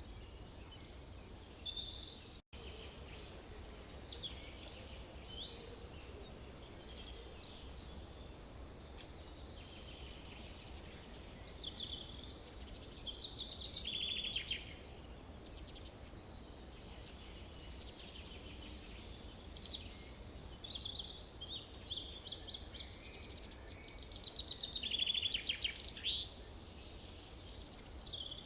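Forest birdsong: several birds chirping, whistling and trilling over a low steady rumble, with a run of louder trills about halfway through and again near the end. The sound cuts out for an instant about two and a half seconds in.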